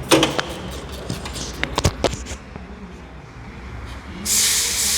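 Workshop sounds during suspension strut removal: a few sharp metallic clinks and knocks, then a burst of hissing about four seconds in.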